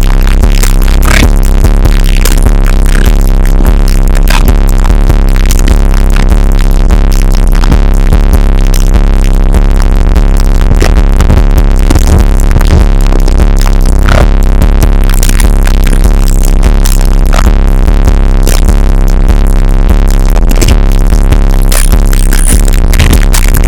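Bass-heavy electronic music played very loud through a car stereo with two JL Audio 13W7 subwoofers. A deep, steady bass dominates, and the recording is driven close to full level.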